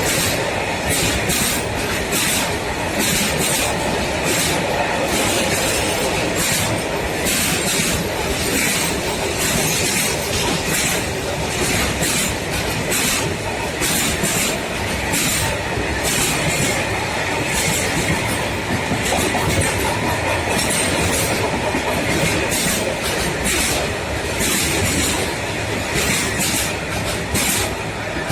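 Freight train running past, its wagon wheels clattering over the rail joints in a fast string of clacks over a steady rumble, beginning to fade right at the end.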